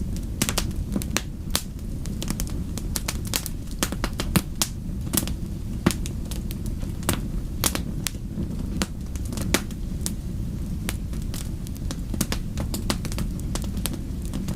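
Wood fire in a fireplace crackling, with many sharp, irregular pops over a steady low rumble of the flames.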